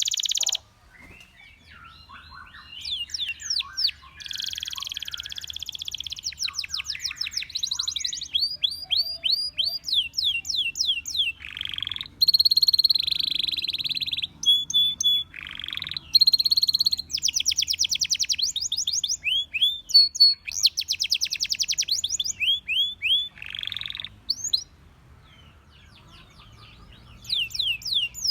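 Domestic canary singing in phrases: fast trills of quickly repeated sweeping notes mixed with a few held, buzzy rolls. There is a short pause at the start and another of a couple of seconds near the end before a new trill begins.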